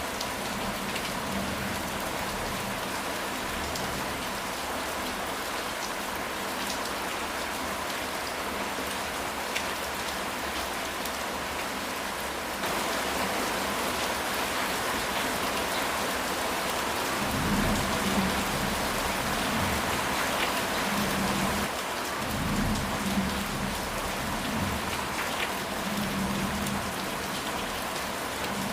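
Steady heavy rain falling on a house roof, growing a little louder a little before halfway. Low rolling thunder rumbles in repeated swells through the last third.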